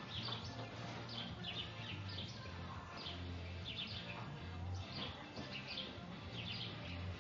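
Small birds chirping over and over in short high calls about once or twice a second, over a low hum that comes and goes.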